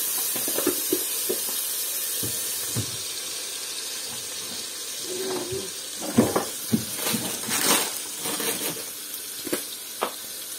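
Onions and ginger-garlic paste frying in oil in a stainless steel pot: a steady sizzle that slowly fades, with a few knocks and clinks about six to eight seconds in.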